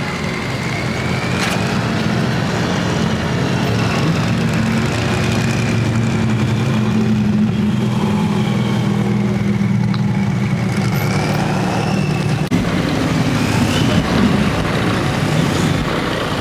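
A motor vehicle's engine running steadily and loudly, with a faint wavering high whine above it. About twelve seconds in, the sound changes briefly.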